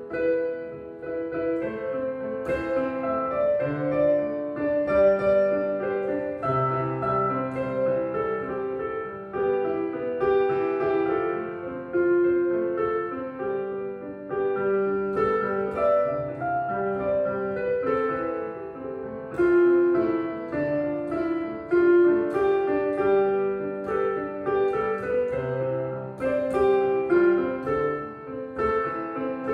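A street piano being played: a melody of separate notes over held low bass notes.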